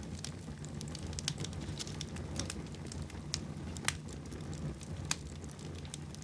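Wood fire burning in a fireplace, crackling with irregular sharp pops about once a second over a low, steady rumble.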